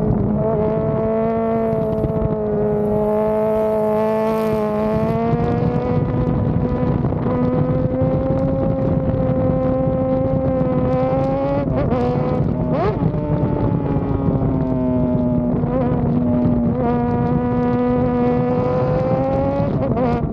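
Honda CBR sport motorcycle engine running at high revs under steady throttle, its pitch holding high with slight drifts. The pitch briefly dips and jumps back about twelve and thirteen seconds in, and again near the end.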